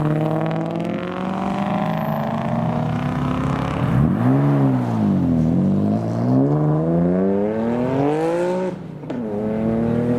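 Car engine revving and accelerating away: a quick rise and fall in revs, then a long climb in pitch through one gear. Near the end it dips briefly at a gear change and climbs again.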